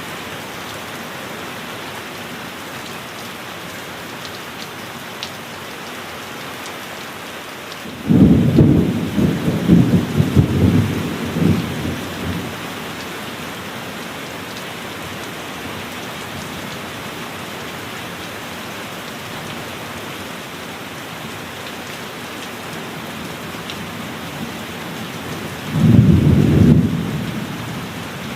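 Heavy rain falling steadily, with two claps of thunder: one about eight seconds in that rolls on in several peaks for about four seconds, and a shorter one near the end.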